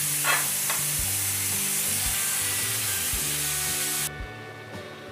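Spiced black chickpeas sizzling as they fry in a hot pan, under background music; the sizzle cuts off suddenly about four seconds in, leaving only the music.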